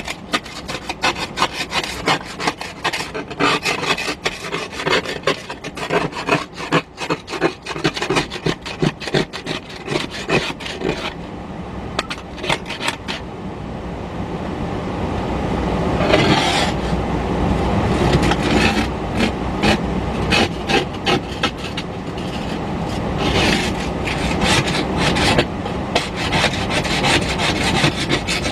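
Ice scraper scraping ice and frost off car windows in quick, repeated strokes, dense for about the first ten seconds and then in shorter spells. A low rumble builds from about halfway through.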